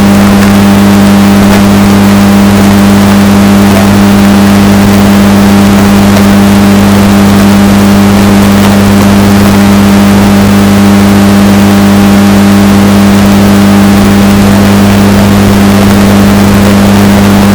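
Washing machine running with a steady, unbroken motor hum, heavily bass-boosted and distorted so that it is very loud and clipping.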